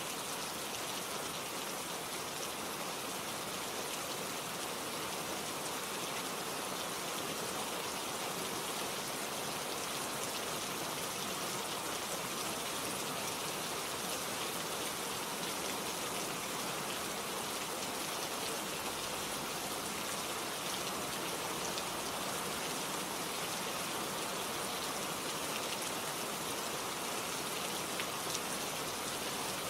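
Steady rain falling, with many fine, scattered drops pattering on leaves and surfaces.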